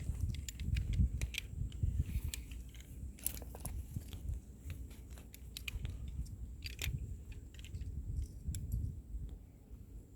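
Scattered scrapes and clicks of a climber moving on a granite slab: shoes and hands on the rock and climbing gear clinking, thinning out near the end, over a constant low rumble on the microphone.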